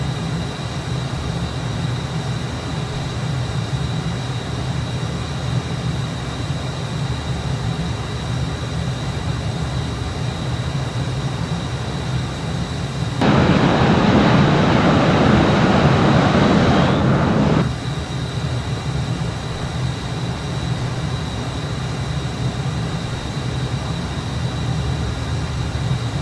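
Jet engine noise: a steady low rumble with a thin high whine. About halfway through, a much louder rushing blast takes over for roughly four seconds, then cuts off abruptly.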